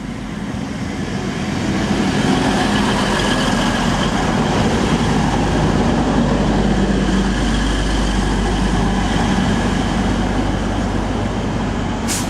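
Class 185 diesel multiple unit at the platform, its underfloor diesel engines running with a steady low hum. The sound builds over the first couple of seconds and then holds.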